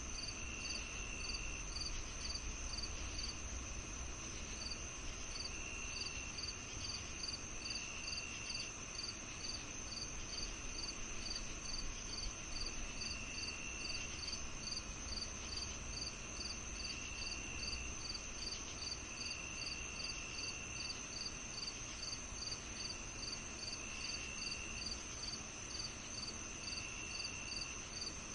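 Summer evening chorus of crickets and other insects. A steady high trill runs under regular chirps about twice a second, and a lower trill comes and goes in spells of about a second.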